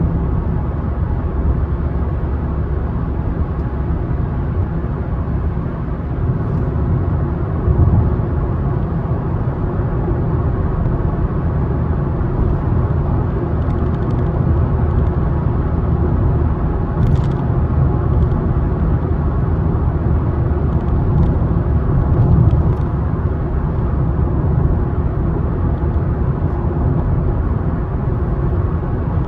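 Car driving along a road: a steady low rumble of tyres and engine, with no speech or music.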